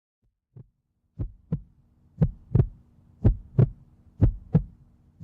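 A heartbeat sound effect: paired lub-dub thumps about once a second, starting faint and quickly growing louder, over a faint steady hum.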